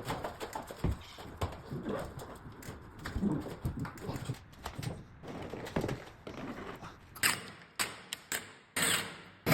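A series of irregular knocks and clicks from tiling work on porcelain stoneware, a few sharper and louder near the end.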